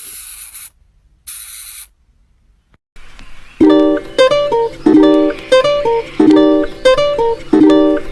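A pet hamster hissing in two short bursts, the second about a second in, showing it is annoyed. About three and a half seconds in, a plucked ukulele-like tune starts with a steady repeating rhythm and is the loudest sound.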